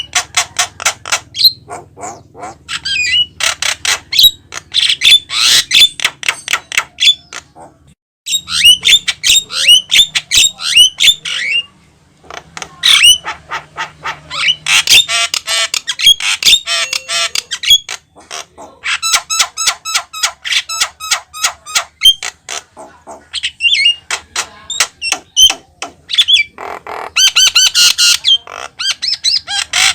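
Javan myna singing a long, vigorous run of harsh squawks, fast clicking rattles and short whistled notes, broken by two brief pauses.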